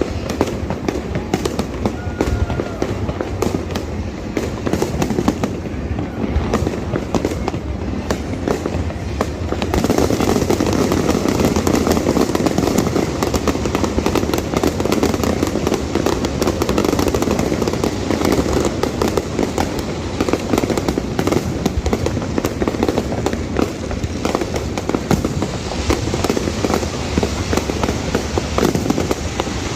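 Fireworks display: a continuous barrage of bursts and crackling, which thickens and grows louder about ten seconds in.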